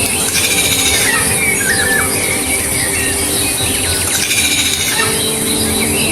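Birds singing and calling: many short whistled notes with quick rising and falling pitch glides, over a steady high-pitched hiss.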